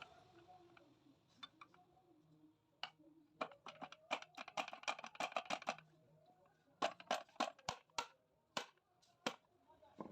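Hand tools and small metal engine parts clicking and clinking in quick irregular runs, two clusters of sharp knocks and taps, during motorcycle engine assembly.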